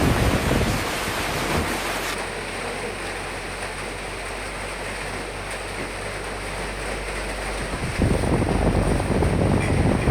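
Rain and wind noise. A loud gust dies away about a second in, leaving a quieter, steady hiss of rain, and the wind surges back loudly about eight seconds in.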